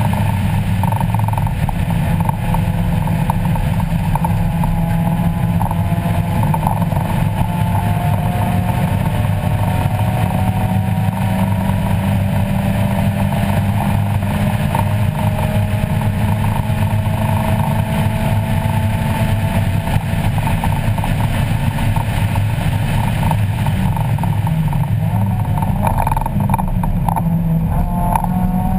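A 1994 Mazda Miata race car's 1.8-litre four-cylinder engine, heard from inside the cabin while being driven hard on track. It runs loud and steady, its pitch climbing slowly as the car accelerates.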